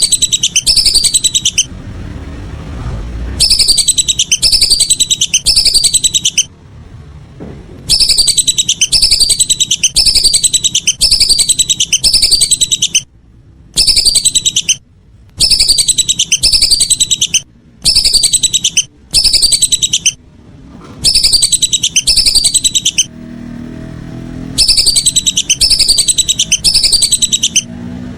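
Whistling ducks (belibis) calling: very loud, high, rapidly repeated whistled notes in bouts of a few seconds, separated by short pauses.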